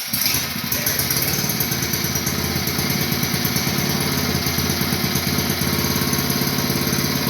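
Small single-cylinder engine of a trash pump catching suddenly and running steadily. A previously non-running engine now starts and keeps running after carburetor work.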